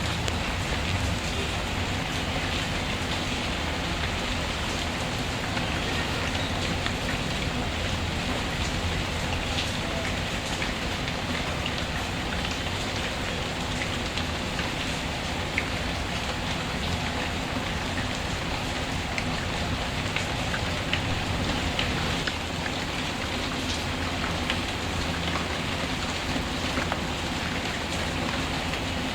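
Steady, even rain falling, with scattered sharp crackles from a wood fire.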